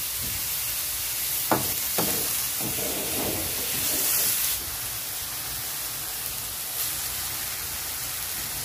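Pork, onion and tomato sizzling as they sauté in a wok, with a steady hiss. A wooden spatula stirs and scrapes the pan, with a couple of knocks about a second and a half in.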